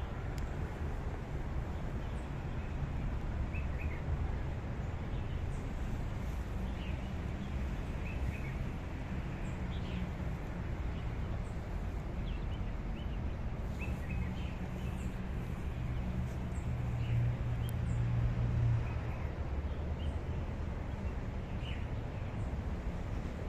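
Small birds chirping in short, scattered calls every second or two over a steady low background rumble.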